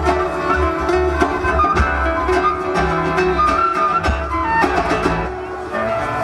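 Folk-rock band playing live: a flute melody over guitar, bass and drums, with regular drum strikes.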